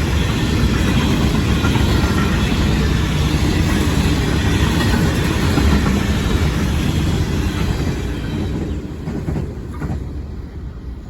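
Grain train rolling past on the rails, a loud steady rumble and rattle that dies away over the last few seconds as the train moves off.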